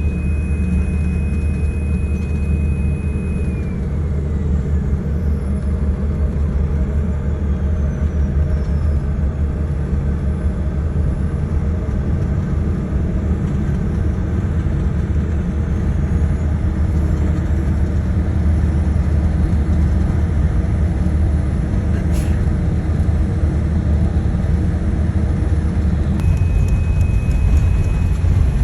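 Airbus A380 airliner's engines running with a steady low rumble and a thin high whine; the whine slides down in pitch a few seconds in and comes back near the end. There is a single sharp click about two-thirds of the way through.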